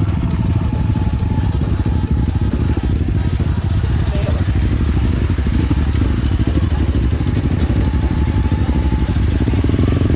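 Enduro dirt bike engine running steadily under way, a dense, continuous low rumble with rapid firing pulses.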